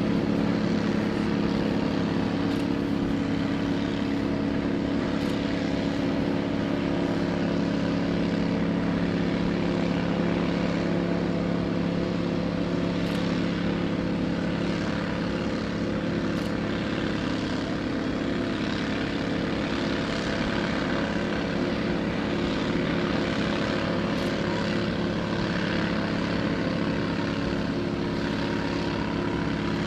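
A large engine running at a steady pitch, a constant drone with no change in speed.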